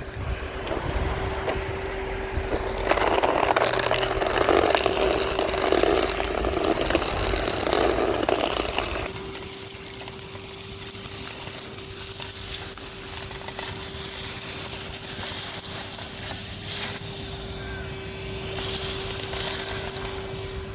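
Numatic Henry HVR200-22 vacuum cleaner running with a steady motor whine. From about three to nine seconds in, louder crunching and rattling as debris is sucked up.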